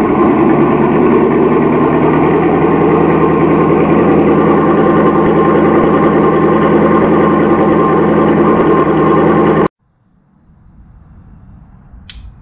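Chevrolet 350 small-block V8, out of the car on a run stand, running at a steady idle on its first start-up. The sound cuts off abruptly near the end.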